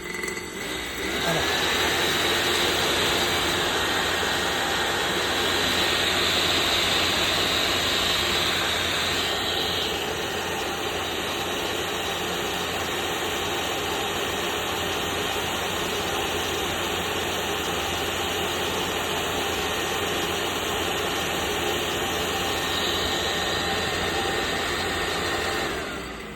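Diesel air heater's 12-volt fan motor boosted to full 12 V, spinning up about a second in and then running fast with a steady high whine over a loud rush of air. The sound drops away near the end.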